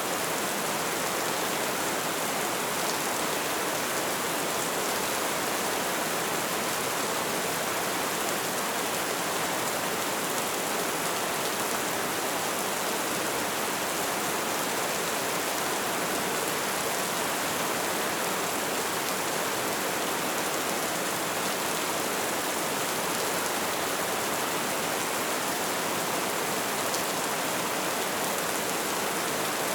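Light rain falling steadily, an even hiss of many small drops.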